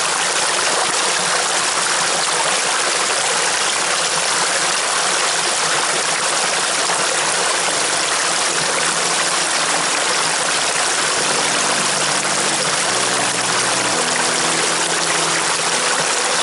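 Rushing water, a loud steady hiss and roar with no breaks. From about halfway, quiet music with held notes fades in underneath.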